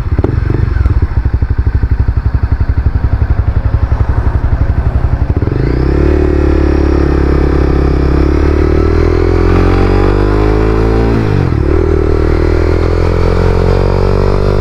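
Honda CBR300R's single-cylinder engine running at low revs with an even pulsing beat, then pulling away about five seconds in: the pitch climbs steadily, drops sharply at a gear change about eleven seconds in, and climbs again.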